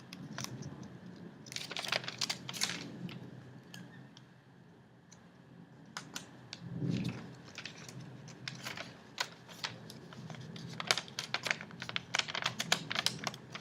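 A sheet of origami paper being handled, folded and creased by hand. It gives crisp crinkles and clusters of sharp little clicks and taps, busiest near the start and again toward the end.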